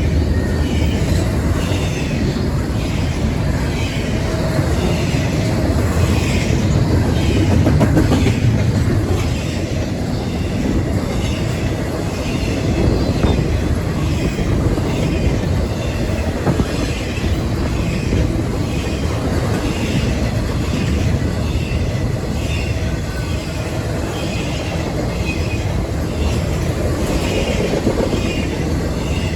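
Train cars rolling past on the rails, a steady rumble with a regular clickety-clack of wheels over rail joints.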